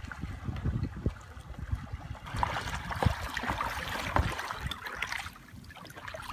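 Kayak paddle blades dipping and splashing in calm water, close by from about two seconds in, with a low rumble before that. The splashing eases off shortly before the end.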